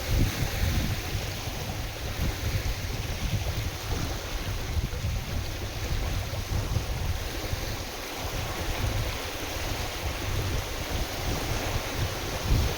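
Wind-driven waves washing on a lake, with gusts of wind buffeting the microphone in an uneven low rumble.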